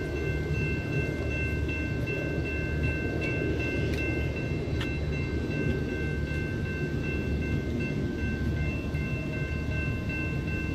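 Freight train passing: a steady low rumble of the locomotives and rolling cars, with a couple of sharp metallic clanks about four to five seconds in and a thin steady high tone over it.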